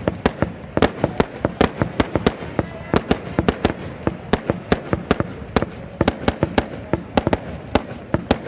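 Fireworks going off in a rapid, irregular string of sharp bangs, several a second, with no let-up.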